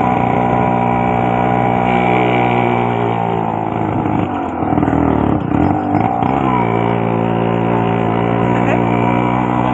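Modified Yamaha RX100's two-stroke single-cylinder engine running at a steady idle, with its note swinging for about two seconds near the middle as the throttle is worked, then settling back to idle.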